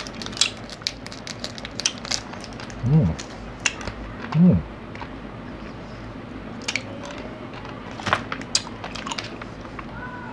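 A person chewing and crunching a small Nano Nano candy close to the microphone, with sharp little crunches scattered throughout. Two short hummed "mm" sounds come about three and four and a half seconds in.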